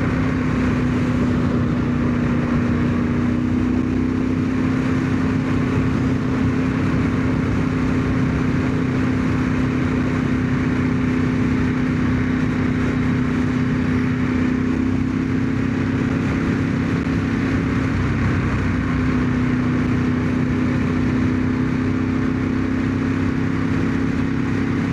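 1997 Ducati 916's V-twin engine running steadily at cruising speed, with a brief dip in engine pitch about eighteen seconds in. Wind rushing over a helmet-mounted microphone runs under it.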